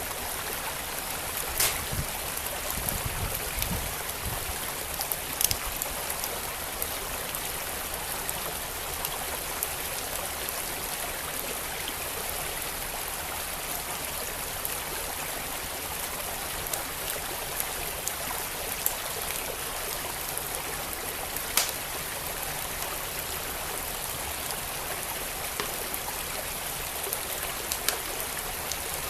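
Steady flowing water of a creek, with a wood fire crackling over it: scattered sharp pops and snaps, a few standing out louder.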